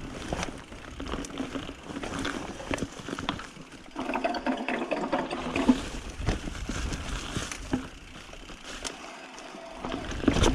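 Mountain bike ridden over a rough, rocky trail: tyres running over dirt and rock, with many short rattles and knocks from the bike.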